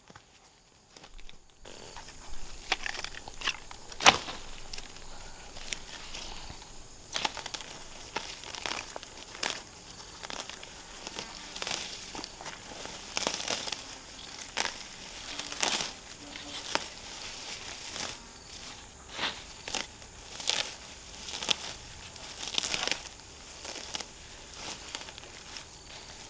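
Irregular crinkling and rustling handling noises, with sharper crackles now and then, over a steady high-pitched insect drone.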